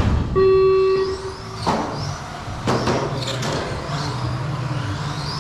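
A race start tone sounding for about a second, then the small electric motors of Tamiya TT-02 radio-controlled touring cars whining up in short rising bursts as they accelerate away, with several sharp knocks.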